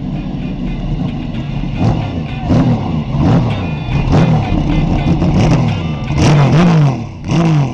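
Racing car engines at full throttle, their pitch rising and falling over and over, with the loudest stretch about six seconds in.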